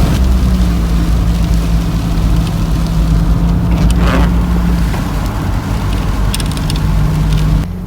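Van driving along a road: steady engine and tyre noise with a low hum and a few light rattles. The sound drops a little near the end.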